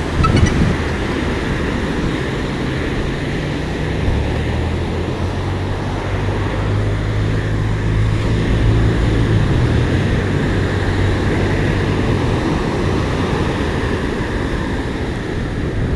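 Steady rushing wind noise with a low droning hum underneath.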